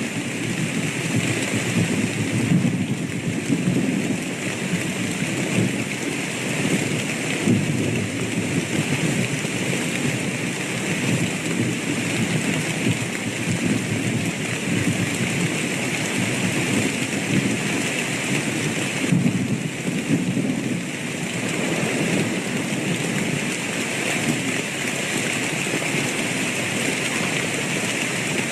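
Steady rain falling, with low thunder rumbling under it, swelling and easing over the stretch.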